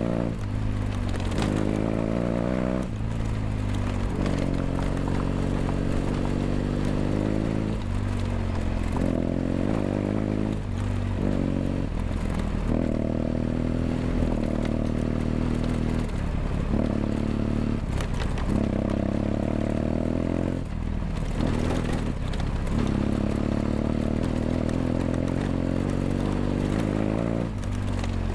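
BMW F800GS parallel-twin engine through a LeoVince LV ONE EVO stainless exhaust, ridden at moderate revs with the throttle eased off and reopened every second or two.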